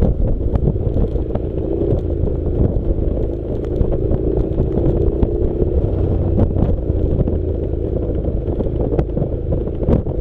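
Honda NC700's parallel-twin engine running steadily while the motorcycle rides an off-road track, with wind rumbling on the microphone and scattered clicks and knocks from the rough going.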